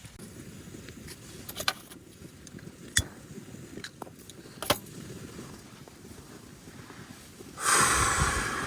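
Several sharp clicks and knocks of camping gear being handled, then a loud rushing hiss near the end that slowly fades.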